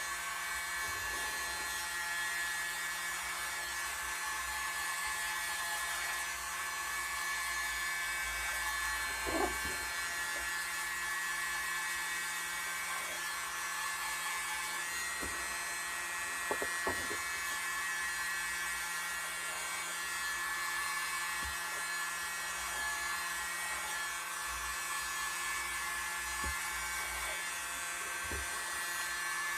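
Small electric blower running steadily with a high whine, blowing wet acrylic paint out from the centre of a pour. A few faint knocks sound about nine seconds in and again around seventeen seconds.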